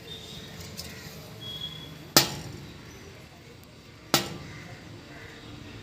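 Woodpecker striking a hard surface with its bill: two single sharp knocks about two seconds apart, each with a short ring after it.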